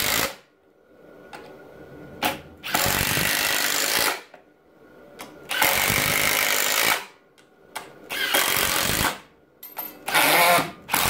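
Makita subcompact cordless impact driver hammering screws in one after another: about four bursts of rapid impacting, each a second or so long, with short pauses between as the next screw is set. Another burst is just ending as it begins.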